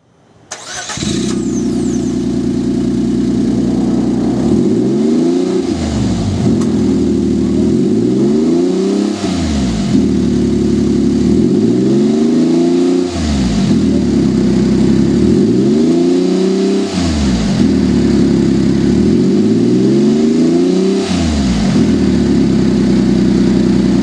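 Suzuki Carry (DA16T) kei truck's three-cylinder engine running through a WirusWin aftermarket side-exit muffler. It idles steadily and is revved five times, about every four seconds, each rev rising and falling back to idle.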